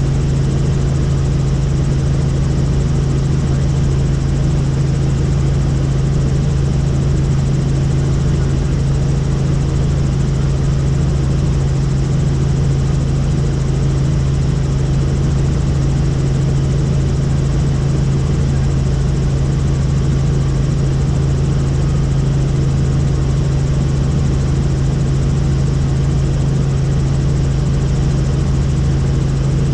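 Helicopter in steady flight, heard from on board: a loud, even drone with a strong low hum that does not change.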